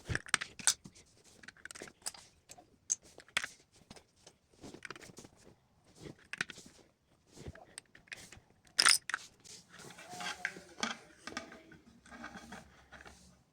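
Plastic LEGO pieces being handled: irregular sharp clicks, rattles and short rustles, the loudest click about nine seconds in.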